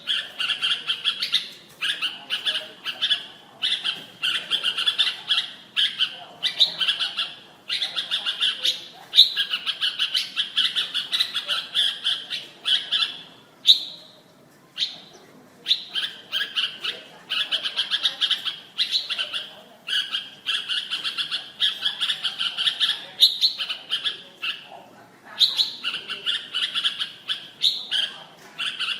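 Red-whiskered bulbul singing: phrase after phrase of rapid chirping notes, each phrase a second or two long with brief pauses between them, and a longer pause about halfway through.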